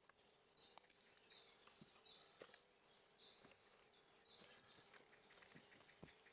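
Faint bird song: a quick run of repeated two-note phrases, each stepping down from a higher note to a lower one, about three phrases a second, which stops near the end. A faint steady hum sits underneath.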